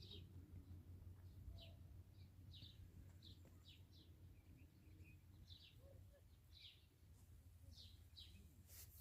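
Faint bird chirps: short, high calls repeating irregularly over a low steady hum, with a brief click near the end.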